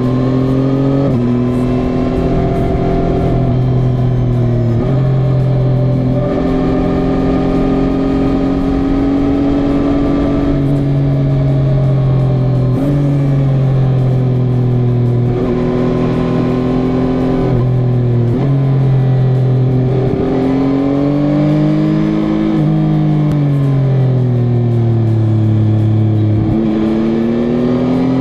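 Yamaha motorcycle engine running while riding. Its pitch holds steady for a few seconds at a time, jumps up or down suddenly several times, and near the end rises and falls smoothly as the revs change.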